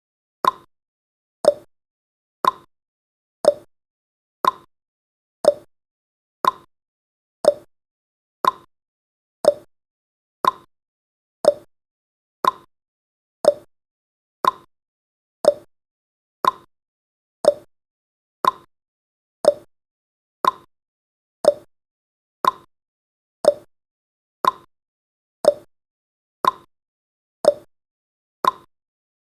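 Countdown timer's tick sound effect: a short, sharp blip once every second, each with a brief pitch that dies away at once, marking off the seconds.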